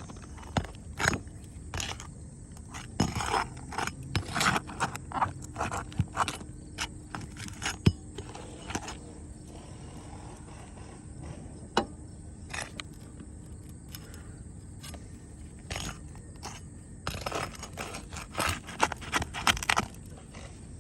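Irregular scraping and sharp knocks of hands-on roof repair work, coming in clusters with quieter gaps between.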